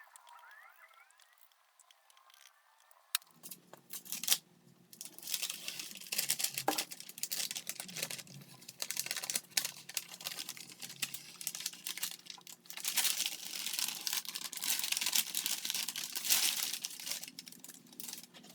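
A small motor starts about three seconds in and runs steadily, with repeated bursts of hissing over it.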